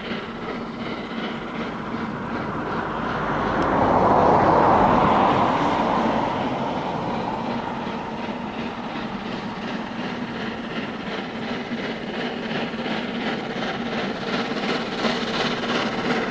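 Steam-hauled passenger train passing, headed by LMS Jubilee class 4-6-0 steam locomotive 45699 'Galatea'. It is loudest about four seconds in, then carries on as a steady rush of coaches with wheels clicking rhythmically over rail joints, the clicks growing sharper near the end.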